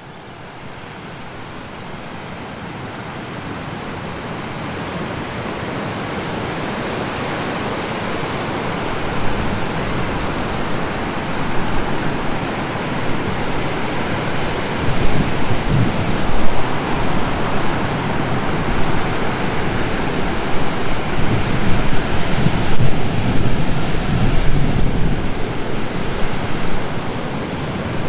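Rough ocean surf after a typhoon: a continuous wash and rumble of breaking waves. It fades in over the first several seconds, then swells irregularly as bigger waves break, loudest past the middle.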